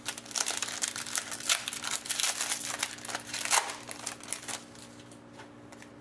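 Crinkling and crackling of plastic trading-card wrapping being handled, a dense run of crackles that dies down about four seconds in.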